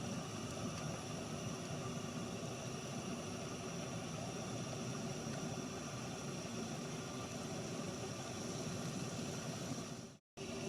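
Steady rushing hiss of propane burners running: a portable propane heater and a camp stove heating a pot of noodles, with a faint steady high whine. The sound drops out for a moment near the end.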